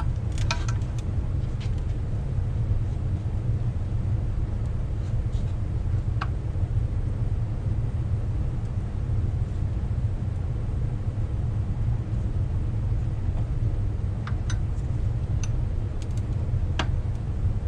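A steady low rumble of background noise, with a few faint, sharp clicks of metal parts being handled as a brake backing plate assembly is taken apart.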